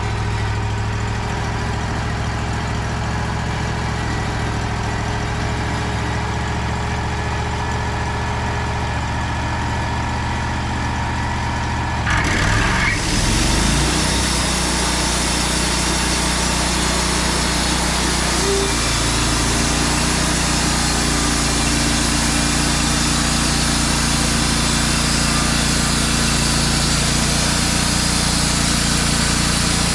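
Wood-Mizer portable band sawmill running, its engine humming steadily. About twelve seconds in, the engine pitch shifts and a steady high hiss of the band saw joins and carries on.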